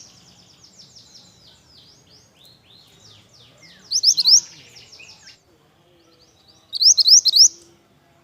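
Burung mantenan songbird singing: loud phrases of three or four quick, sharp, high rising notes, twice about three seconds apart, with a softer, rapid run of varied chattering notes between them.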